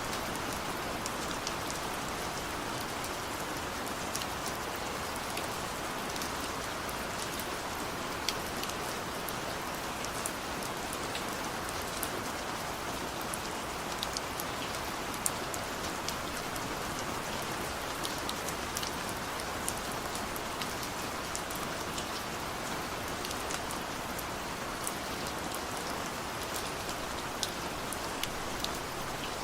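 Heavy rain falling steadily, a dense even hiss with scattered sharp drop impacts ticking through it.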